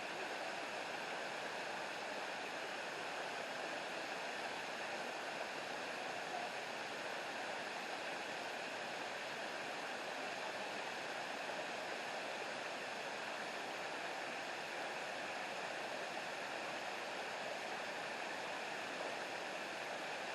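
Steady rush of falling and running water from a waterfall and its stream.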